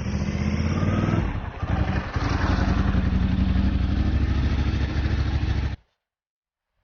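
Motorcycle engine running at low revs, briefly dipping about a second and a half in, then steady until it cuts off suddenly about a second before the end.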